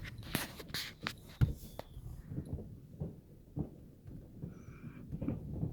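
Distant fireworks going off: scattered sharp pops and low thumps at irregular intervals, thicker in the first two seconds.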